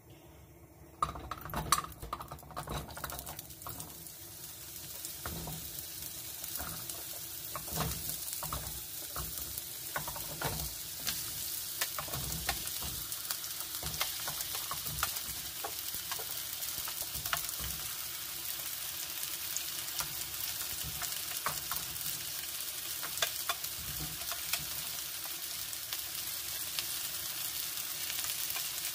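Potatoes and carrot chunks frying in hot oil in a nonstick wok, a steady sizzle dotted with small crackles. It starts with a few sharp knocks in the first couple of seconds and builds to full strength over the next few seconds.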